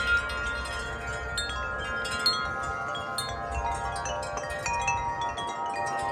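Several tuned wind chimes ringing together in gusty wind, struck again and again so their tones overlap and sustain.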